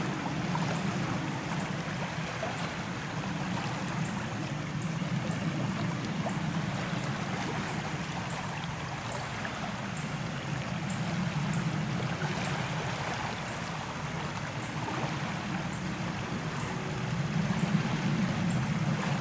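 Lakeside ambience: a steady wash of water noise with a low hum that swells and fades several times, and faint high ticks repeating about every half second.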